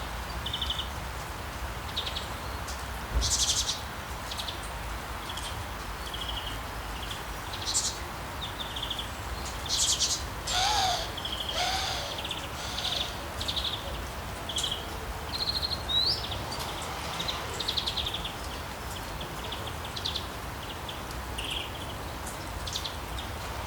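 Several birds chirping and twittering in short high calls over a steady hiss of rain, with two lower calls near the middle.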